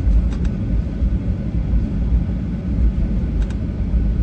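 Steady low rumble of airliner cabin noise, with a couple of faint clicks.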